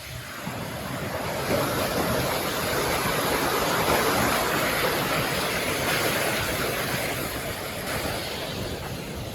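A vehicle passing: a rushing noise that builds over the first couple of seconds, peaks midway and slowly fades away.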